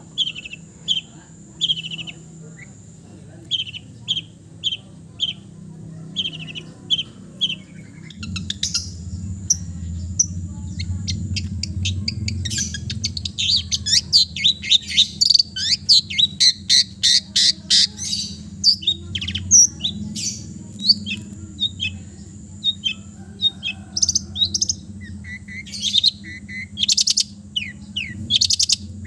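Long-tailed shrike (cendet) singing a mimicry-filled song. First comes a run of short, repeated high notes, about two a second. From about eight seconds in it breaks into a fast, dense chattering medley, with a low steady hum underneath.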